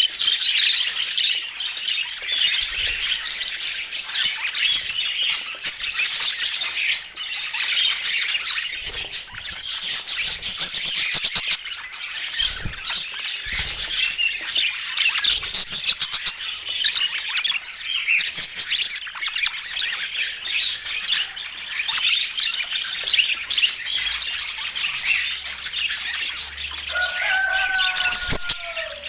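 A flock of budgerigars chattering and warbling without a break, full of squawks and quick clicking chirps. Near the end a single clear whistle falls in pitch above the chatter.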